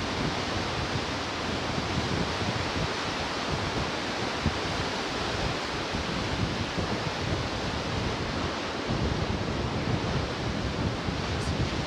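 Pacific surf washing continuously on the shore, a steady hiss of breaking water, with wind buffeting the microphone in an uneven low rumble.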